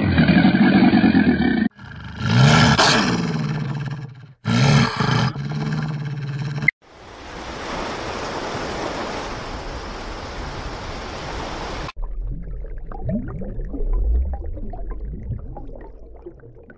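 Low, deep animal calls in three short takes, each cut off abruptly, followed by about five seconds of steady hiss and then a low rumble with scattered small noises.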